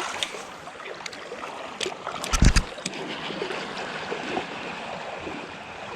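Creek water running steadily, with a short cluster of sharp knocks and a deep thump about two and a half seconds in.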